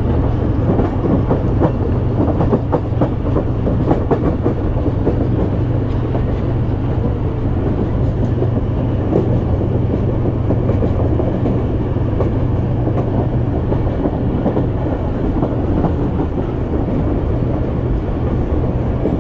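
Passenger train running along the track, heard from inside a moving coach by its open window: a steady rumble with a low hum and the clatter of wheels over the rails, with the clicks busiest in the first few seconds.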